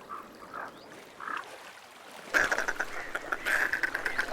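Ducks calling: a few faint short calls, then about halfway through a louder run of rapid repeated calls.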